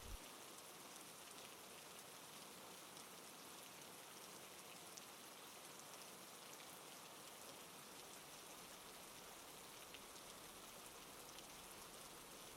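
Faint, steady rain falling on a surface, an even patter with scattered light drops.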